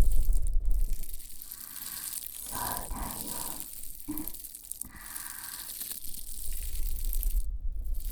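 Close-up scraping and rubbing against the ears of a KU100 binaural dummy-head microphone, with deep rumbling bursts near the start and again near the end.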